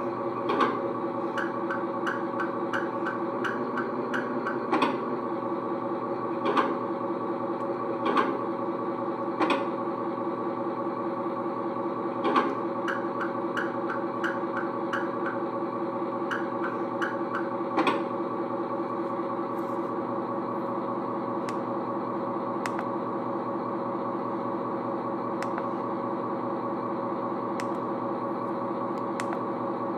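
A 1/14 scale RC Volvo A40G dump truck running with a steady mechanical hum, broken in the first half by a handful of sharp knocks and two runs of quick ticking.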